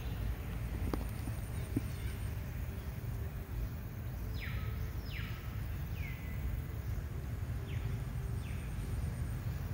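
Steady low outdoor rumble with a sharp click about a second in. In the second half there are five short whistled calls, each sliding steeply down in pitch, from a bird.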